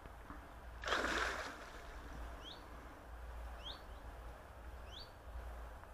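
A bird gives a short rising call three times, about every second and a quarter, over a steady low rumble. About a second in there is a brief, loud rush of noise.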